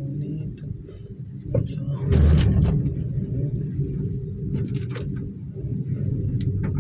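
Steady low rumble of a car driving on the road, with a louder rushing whoosh about two seconds in and scattered light clicks.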